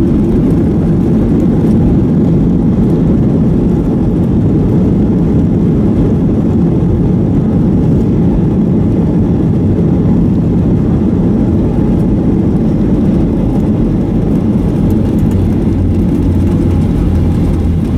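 Cabin noise inside a Boeing 737-800 near a wing: a loud, steady rumble of the jet engines and airflow, mostly deep in pitch, with no distinct events.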